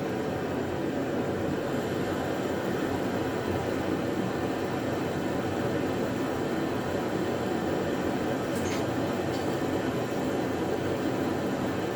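Steady, even rumbling noise with no change in level, and one faint click about nine seconds in.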